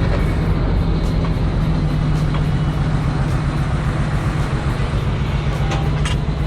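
Heavy truck's diesel engine running steadily, a loud low hum that holds one pitch, with a few light clicks near the end.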